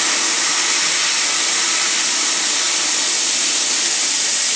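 Pneumatic air tool running steadily: a loud, even hiss of exhausting compressed air with a faint whir under it, which cuts off sharply just after the end.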